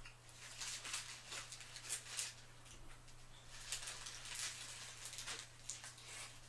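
Close-up chewing and wet mouth sounds of a person eating a cheeseburger, irregular soft smacks and crackles, over a steady low electrical hum.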